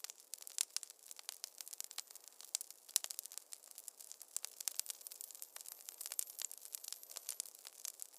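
Wood fire crackling in a fireplace: a dense, irregular run of sharp pops and snaps over a light hiss.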